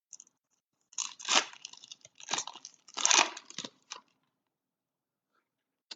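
Trading-card foil pack wrappers and cards being handled, crinkling in several bursts over about three seconds before going quiet, with a short click near the end.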